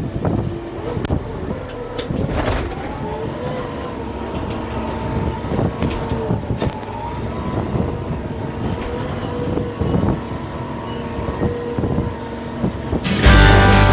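Kubota M6-141 tractor at work with a grapple: a steady mechanical whine that wavers slightly in pitch, with many sharp knocks and cracks. Strummed acoustic guitar music comes in just before the end.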